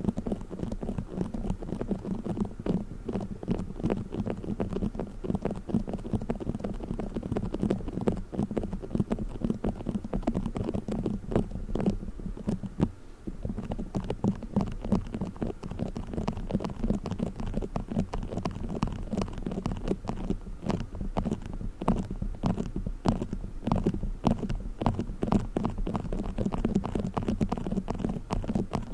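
Play foam, a modelling compound of tiny foam beads, being squished and kneaded: dense, continuous crackling and squelching, with a brief pause about 13 seconds in.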